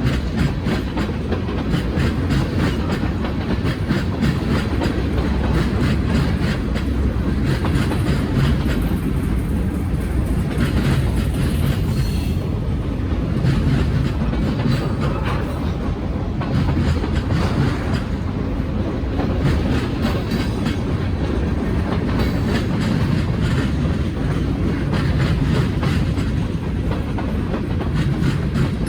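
Freight train of tank cars rolling steadily past, its wheels clacking over rail joints in a continuous run of clicks over a low rumble.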